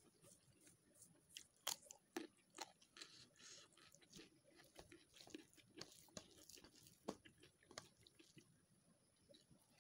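Faint close-up eating sounds: a mouthful of rice and fried beans being chewed with moist smacks and crunches, and a few sharp clicks, the loudest a little under two seconds in, while fingers mix rice on a steel plate.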